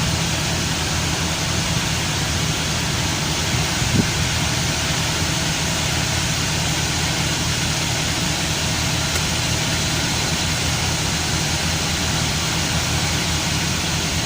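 Chevrolet Camaro engine idling steadily while still warming up, its coolant temperature not yet up to operating level. A short knock about four seconds in.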